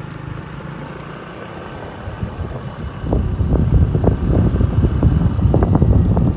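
Wind buffeting the microphone in rough, irregular gusts that set in about halfway through, over a steady low hum heard beforehand.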